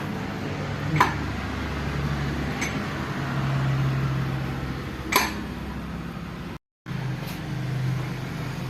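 Massey Ferguson tractor engine running steadily at idle, with three sharp metallic clicks from work on the gearbox.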